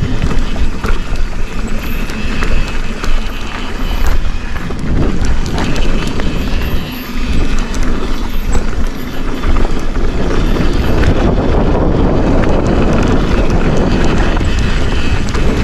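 Forbidden Dreadnought mountain bike riding down a dirt trail: tyres rumbling over the ground and the bike rattling with many small clicks over bumps. Wind buffets the microphone, and the rumble grows denser in the second half.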